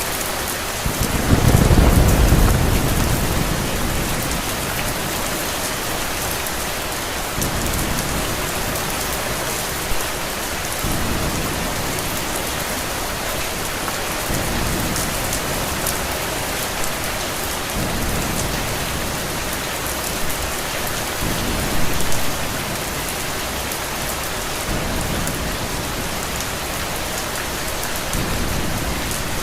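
Steady rain with a loud roll of thunder about a second in, then fainter low rumbles of thunder every few seconds.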